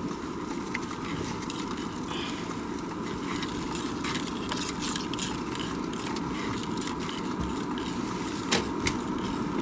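Steady road and engine noise heard from inside a car's cabin while driving on snow-covered roads, with a couple of short sharp clicks near the end.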